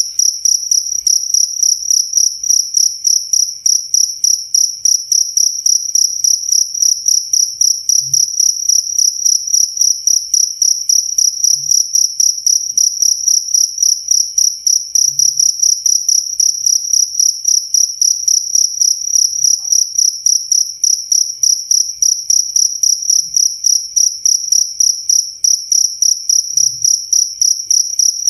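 Cricket chirping steadily: one high, clear note repeated in a fast, even rhythm of about four chirps a second.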